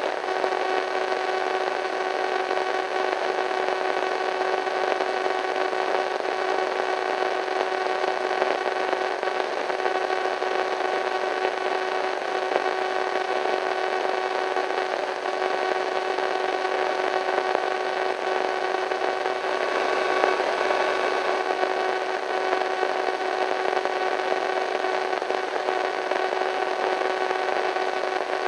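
Radio static: a steady hiss with a stack of steady humming tones running through it, swelling slightly about twenty seconds in.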